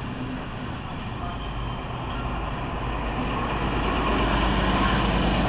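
Train approaching, its running rumble and low hum growing steadily louder.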